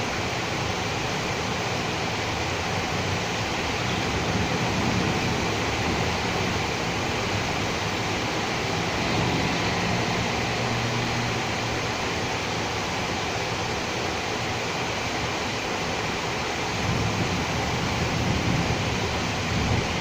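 Steady rain falling in a city street, with the low rumble of vehicles passing on wet road swelling and fading a few times, around 5 seconds in, around 10 seconds in and near the end.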